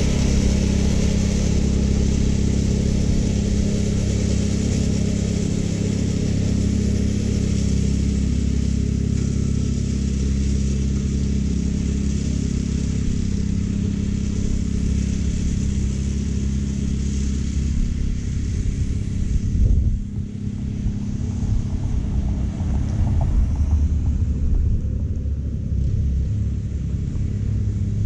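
California Trimmer gas-engine reel mower running steadily while its reel cuts short bermuda grass: a constant engine hum under a high, hissing whir of the reel. The sound dips briefly about two-thirds of the way through, then picks back up.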